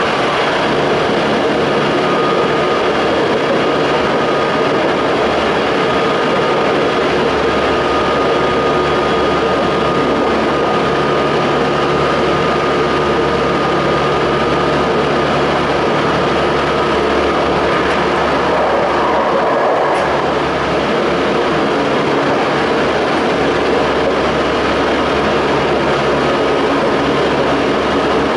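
Toei 5300 series electric train with a Mitsubishi GTO inverter running at speed: steady wheel, rail and traction motor noise, with a high steady whine that fades about two-thirds of the way through.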